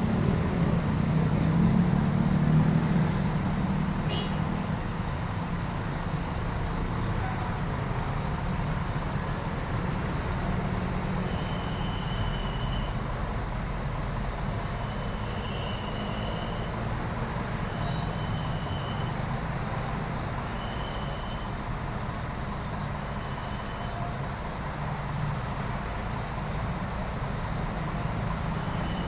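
Bus engine running with a steady low rumble, heaviest in the first few seconds. There is one sharp click about four seconds in. From about eleven seconds on, short high beeps repeat every two to three seconds.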